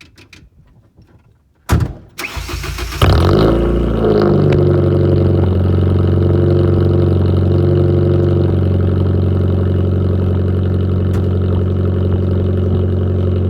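Car engine with a straight-piped exhaust, muffler removed, heard right at the tailpipe: cranked by the starter about two seconds in, it catches about a second later with a brief rev, then settles into a steady, loud idle.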